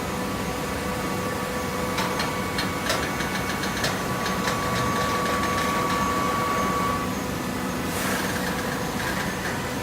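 Coconut fiber baler machine running: a steady mechanical hum with a thin whine that cuts off about seven seconds in. A run of sharp clicks and knocks comes about two to five seconds in, and a short rush of noise follows near the eighth second.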